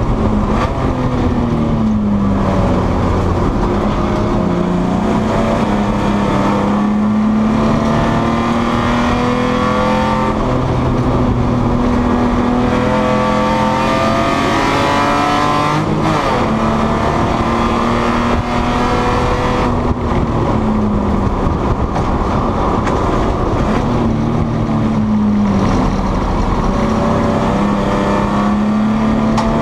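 BMW E30 race car's engine heard from inside the caged cockpit at racing pace, loud throughout. The revs climb under full throttle, drop suddenly on an upshift about halfway through, and fall away then climb again as the car slows for corners and accelerates out.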